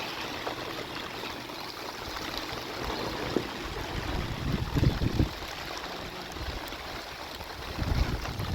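Steady heavy rain with running water, a continuous hiss, with a couple of low rumbles about halfway through and again near the end.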